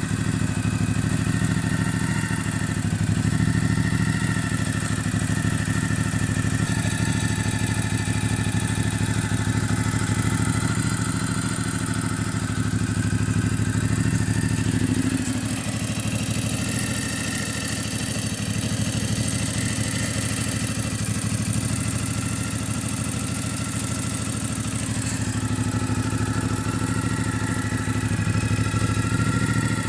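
Ducati Multistrada 1200S's L-twin engine running steadily at idle.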